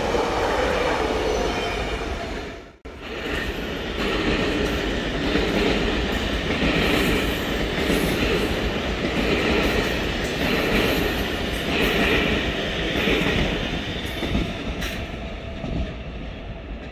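Bombardier Regio 2N double-decker electric train running past close by, its wheels rumbling and clattering on the track. The sound drops out sharply about three seconds in, then train running noise resumes, swelling and fading at a slow, regular rhythm.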